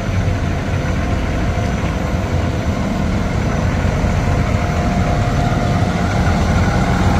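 Heavy truck engine running steadily at a low, even rumble.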